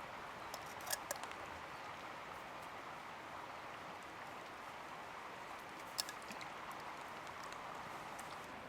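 Steady rush of flowing river water, with a few sharp clicks about a second in and a single sharper click about six seconds in.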